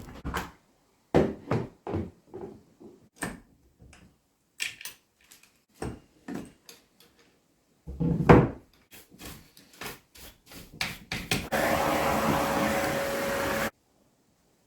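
Knocks and clanks of tools and parts being handled, in short cut-together snippets, with one louder knock about halfway. Near the end a machine runs steadily for about two seconds and cuts off sharply.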